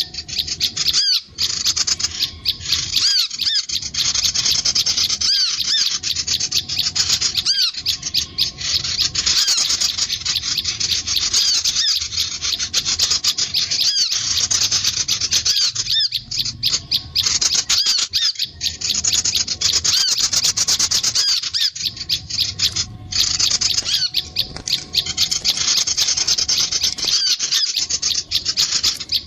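Recorded sunbird and prinia calls: dense, rapid, high-pitched chirping and trilling that goes on almost without pause, with only brief breaks.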